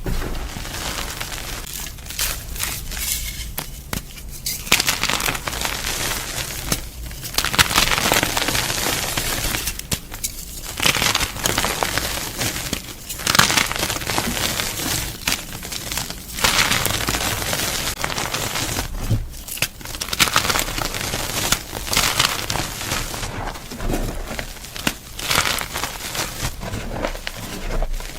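Gym chalk being crunched: dense crackling and crumbling in bursts of a few seconds, with short pauses between.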